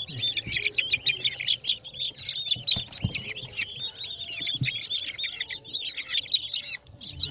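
Many young chickens peeping without pause, a dense chorus of short high chirps, with a couple of soft knocks partway through.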